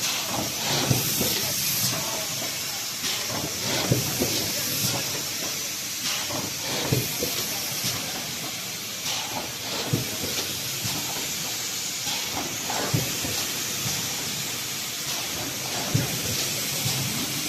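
Roll-fed PVC thermoforming machine running at 20 cycles a minute: a steady hiss with a clunk about every three seconds as the stations cycle.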